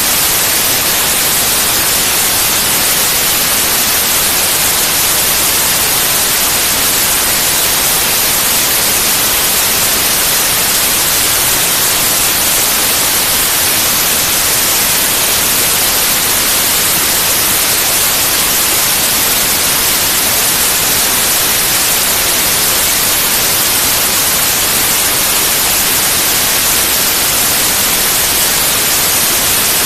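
White noise: a steady, loud, even hiss with no change.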